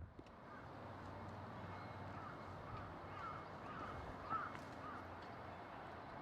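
Birds calling outdoors: a run of short calls over a steady background hiss, the loudest about four seconds in.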